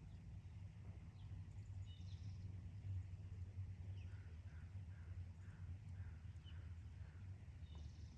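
Faint chirps of small birds over a steady low rumble, with a run of about seven short notes, a little over two a second, from about four to seven seconds in.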